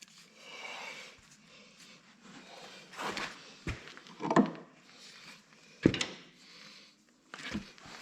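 A few separate knocks and clanks, about four, from tools and parts worked against a Massey Ferguson 35 tractor while its stuck hydraulic pump is being pried out.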